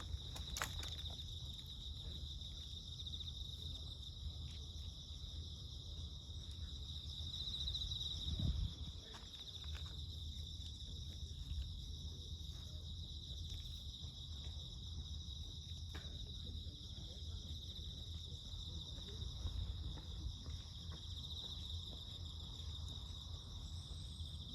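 Insects chirring in a steady, high-pitched chorus over a low outdoor rumble, with scattered faint clicks and a louder low thump about eight seconds in.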